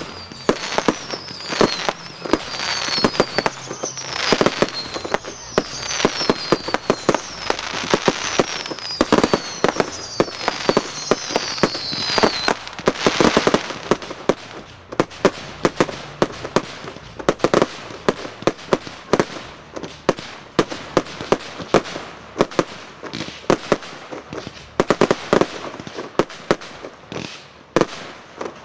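Aerial fireworks display: a rapid, dense run of sharp bangs from bursting shells. Over the first twelve seconds or so, a string of whistles falls in pitch.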